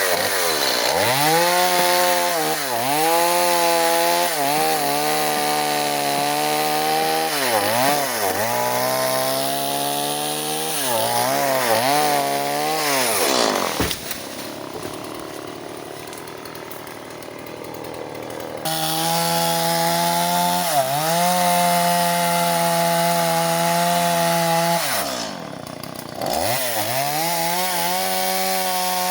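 Stihl MS 170 two-stroke chainsaw cutting avocado branches. It revs up and down repeatedly, drops to a quieter stretch for a few seconds around the middle, then holds steady at high revs before a brief dip and picking up again.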